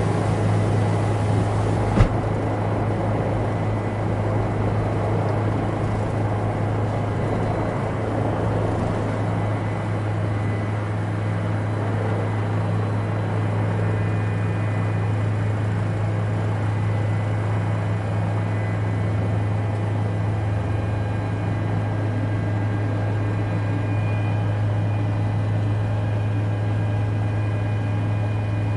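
Steady drone of a helicopter in flight, a constant low hum with no rise or fall, and a single sharp click about two seconds in.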